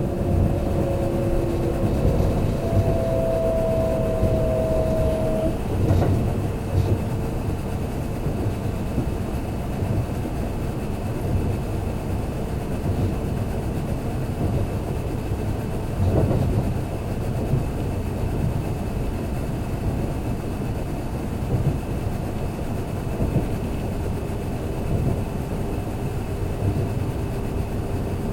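Running noise inside a Kintetsu limited express electric train car: a steady low rumble of wheels and running gear on the rails. Faint humming tones come and go, and there are single knocks about six seconds in and again after about sixteen seconds.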